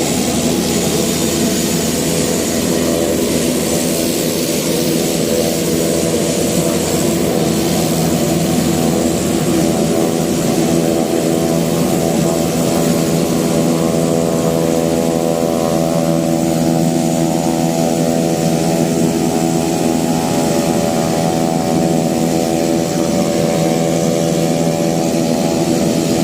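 Private jet's engines running steadily at a constant pitch, a loud hum of several tones with a thin high whine above it.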